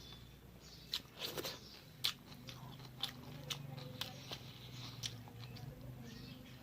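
A person chewing and biting food, with about ten irregular sharp crunches.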